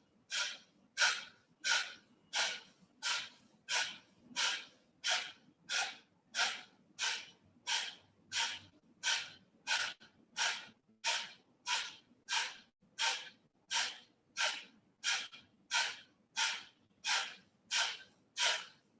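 Kapalabhati breathing: a steady run of short, forceful exhalations, each puff pushed out by a sharp pull of the belly, about three every two seconds. These are the rapid pumped breaths of a set of thirty.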